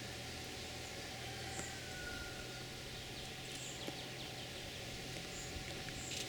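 Outdoor ambience with faint, short, high chirps of small birds every second or so over a steady background hiss.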